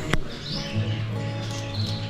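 Music with small birds chirping over it, and a sharp click just after the start.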